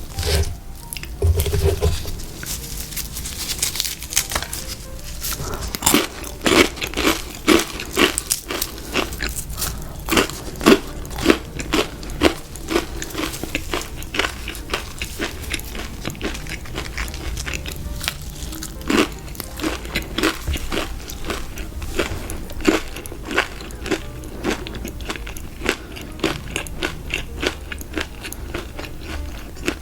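A person biting and chewing crispy fried food, a run of sharp crunches several a second with quieter chewing in between.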